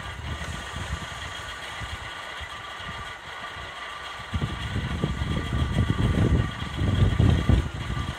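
Narrow-gauge train starting to move out from under a bridge: a rough low rumble begins about four seconds in and grows louder, over a steady background hum.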